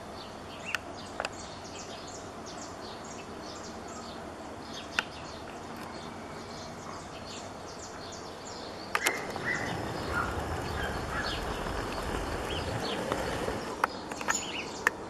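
Birds chirping over steady outdoor background noise, with a few sharp clicks. About nine seconds in, a louder low rushing noise sets in and continues under the chirps.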